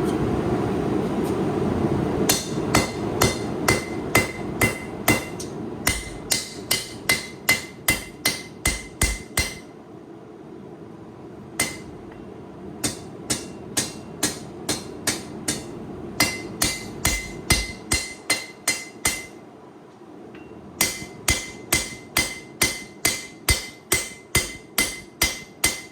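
Hand hammer striking hot 8670 high-carbon steel on an anvil, about two ringing blows a second in three runs with short pauses between, drawing the knife blade's spine down to thickness. A steady low rumble at the start fades out as the hammering begins.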